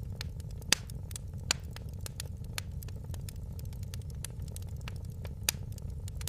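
Wood fire crackling in a fireplace: a steady low rumble with frequent sharp pops and snaps. The loudest pops come under a second in, at about a second and a half, and near the end.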